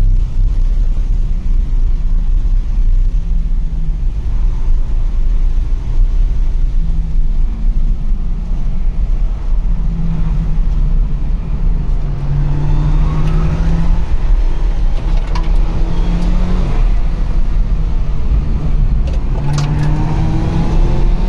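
Car engine and road rumble heard from inside the cabin at speed, a steady low drone. The engine note comes up from about halfway through and rises in pitch as the car accelerates, a little past the middle and again near the end.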